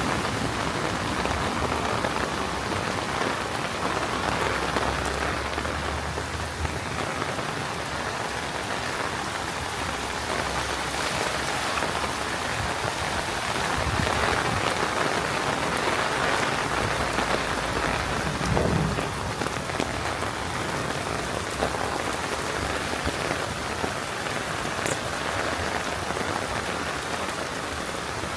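Heavy rain falling in a steady downpour, a dense even hiss of drops. There is one brief low thump about two-thirds of the way through.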